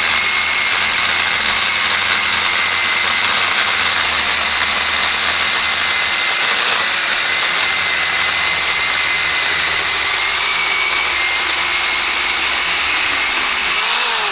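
DekoPro 8-amp corded electric pole saw running at steady full speed, its motor and chain making a constant whine. Near the end the trigger is released and the motor spins down with a falling pitch.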